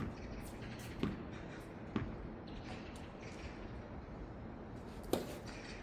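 Tennis ball being played: four sharp knocks of the ball off rackets and the court, the first three about a second apart, the last after a pause of about three seconds.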